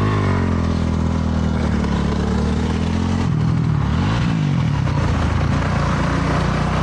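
Honda CRF450R single-cylinder four-stroke dirt bike engine running at steady revs, dropping off about three seconds in and rising briefly again soon after, over a rush of wind noise from riding.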